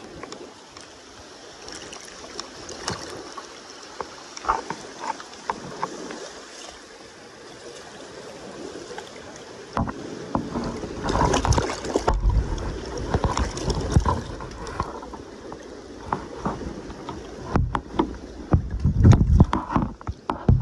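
River water with wind buffeting the microphone and scattered knocks from handling. The gusts grow stronger from about halfway through.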